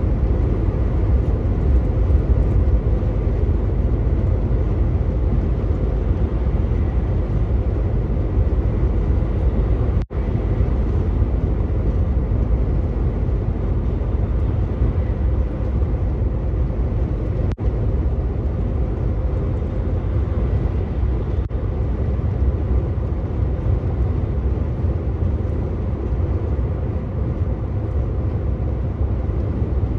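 Truck engine running steadily under way, with a low rumble and an even road-and-tyre hiss. The sound briefly cuts out for an instant about ten seconds in.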